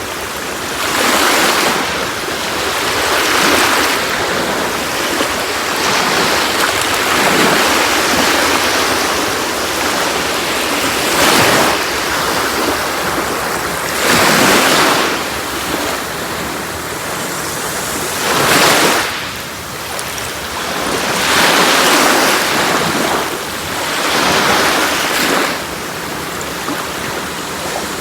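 Sea waves breaking and washing on a shore, a continuous surf hiss that swells into a louder surge every few seconds.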